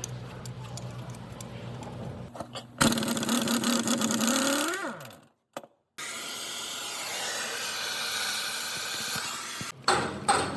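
Workshop power-tool noise: a steady low hum, then a tool spins up with a rising pitch and winds down, then cuts out; after a short gap a steady, noisy tool sound runs.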